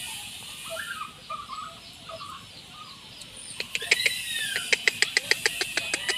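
Birds calling: faint short chirps, then an arching call, over a fast, even run of sharp clicks that starts about halfway through.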